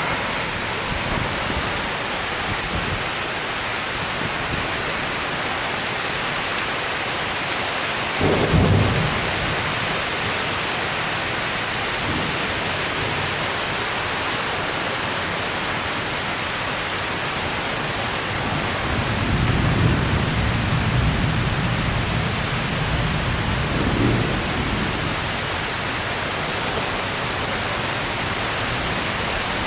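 Heavy rain falling steadily during a severe thunderstorm. There is a short, loud burst of thunder about a third of the way in, and a longer rumble of thunder past the middle.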